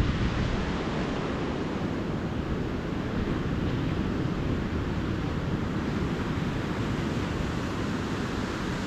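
Calm ocean surf washing steadily onto the beach in an even hiss, with a low wind rumble on the microphone underneath.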